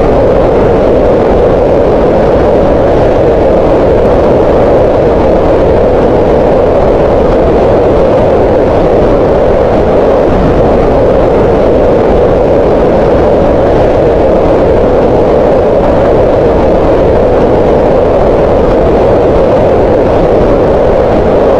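Green noise: a steady, loud synthetic rushing noise, strongest in the middle of the range, with less low rumble and little high hiss.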